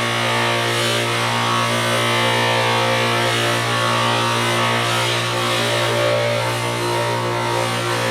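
Electric bench buffer running with a steady motor hum while a wrench is polished on the buffing wheel.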